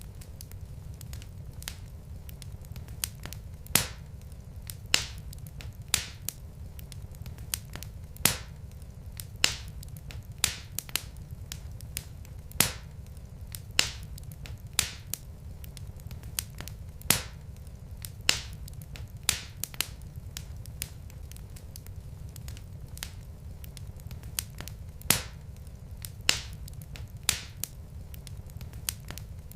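Wood fire in a fireplace crackling: logs give irregular sharp pops, roughly one a second, over a low steady rumble of the burning.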